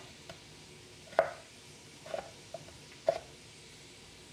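Knife cutting potatoes on a cutting board: sharp knocks of the blade hitting the board, about one a second.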